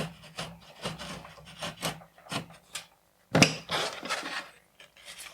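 An X-Acto knife blade scoring a thin mica sheet against cardboard, in repeated short scraping strokes, with one louder, sharper stroke about three and a half seconds in.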